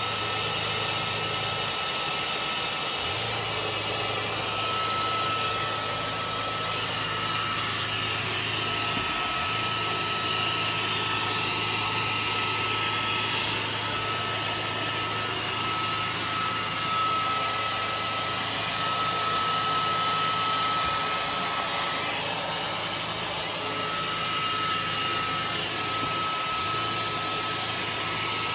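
Dyson 360 Heurist robot vacuum cleaner running: a steady whirr with a constant high whine, and a low hum underneath that briefly drops out a few times.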